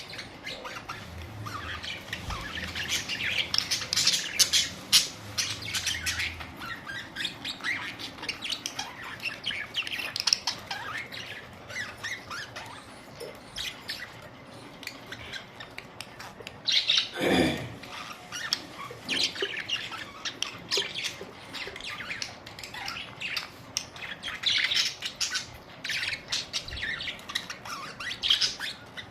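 Several budgerigars chirping and chattering in quick, busy bursts, with one louder call about seventeen seconds in.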